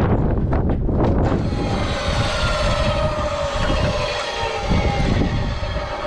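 A passing engine's drone, its pitch falling slowly over several seconds, over a low rumble.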